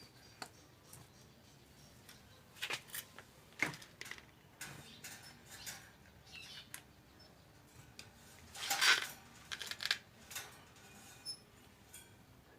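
Small songbird, a prenjak gunung, moving about its cage: scattered light clicks and knocks, with a louder half-second rustle about nine seconds in, and no song.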